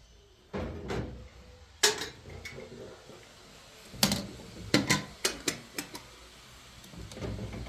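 A run of sharp clinks and knocks of hard objects, with a duller thud just before the first one: a loud clink about two seconds in, then a quick cluster of five or six more between about four and six seconds in.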